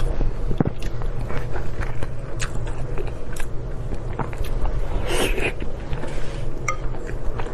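Close-up eating sounds: chewing and biting with scattered wet clicks, and a longer noisy stretch about five seconds in. A steady low hum runs underneath.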